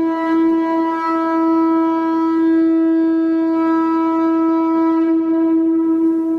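Conch shell trumpet blown in one long, steady note.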